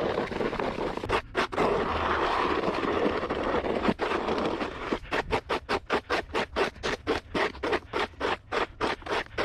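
Gritty scraping on a snowy, salted walkway: continuous at first, then from about halfway through a quick, even run of short scraping strokes, roughly four a second.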